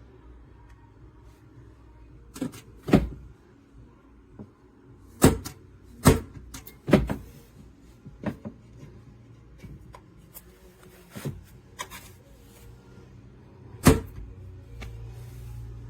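Small metal quick-access handgun safe being handled, making a series of about eight sharp clicks and knocks, irregularly spaced, as its lid and latch are worked open and shut.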